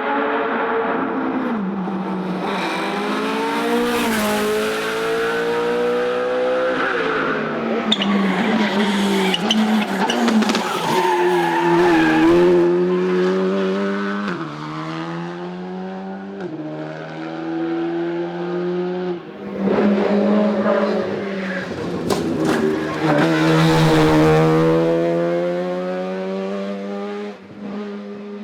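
Racing car engine at high revs, its pitch climbing and then dropping back at each gear change, several times over, with tyres squealing.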